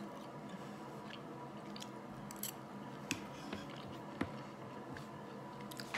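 Close-miked chewing of a mouthful of food with the mouth closed: faint, soft wet clicks and smacks scattered through a quiet room background.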